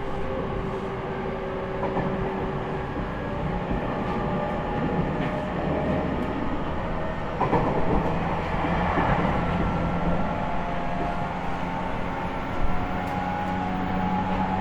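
Interior running sound of an E501 series electric train's motor car: the Toshiba IGBT inverter and traction motors whine over wheel and rail noise. The whine climbs gently in pitch over the second half, and there is a single sharp knock about 12 seconds in.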